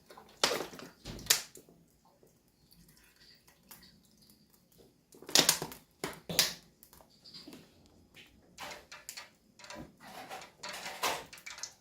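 Scattered knocks and clicks of kitchen utensils and cookware being handled while dough balls are fried, with quiet stretches between.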